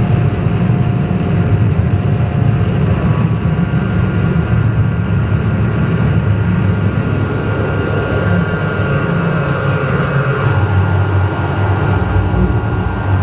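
Ambient drone music from analog synthesizers: a loud, dense, deep drone that holds steady, with a cluster of sustained higher tones joining it about three and a half seconds in.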